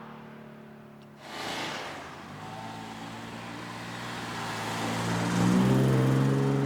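A car's engine and exhaust running at low revs, growing steadily louder and loudest near the end, with a brief rush of noise about a second in.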